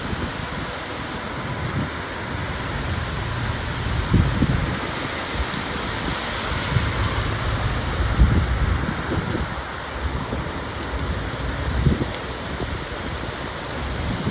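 Heavy rain falling steadily, a dense even hiss, broken a few times by short low rumbles, the strongest about eight seconds in.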